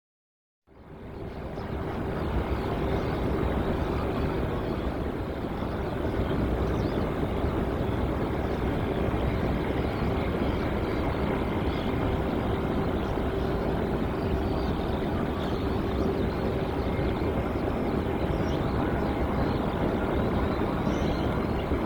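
Jet airliner engines running steadily, a constant rushing noise with a steady hum, fading in from silence about a second in.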